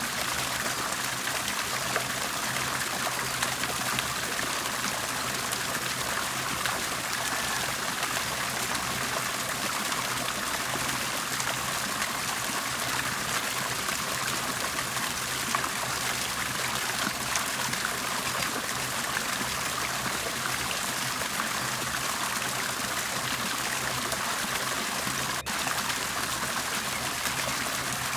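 Water bubbling and gurgling steadily, with a brief dropout near the end.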